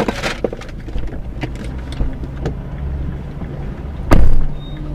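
Car interior and road noise, a steady low rumble with scattered light knocks. A loud, heavy thump about four seconds in.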